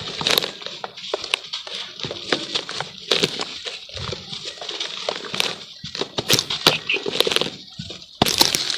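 Charcoal crumbling in water: a busy, irregular run of wet crackles and snaps, getting louder near the end.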